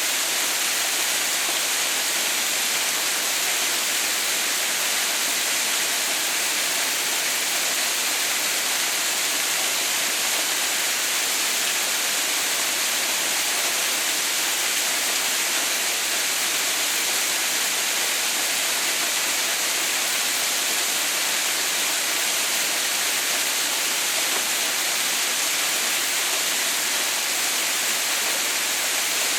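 Haha no Shirataki (Mother's White Waterfall), in its winter icefall state, with water pouring down in a steady, even rush that carries a lot of hiss and never breaks or changes.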